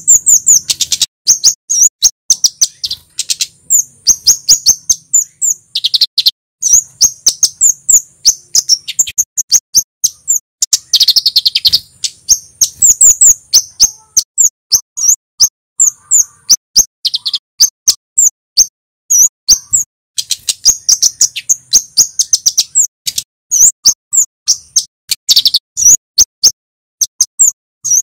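Male kemade (flowerpecker) singing: rapid runs of short, sharp, high-pitched 'cit' chirps, repeated in bursts with brief pauses between them.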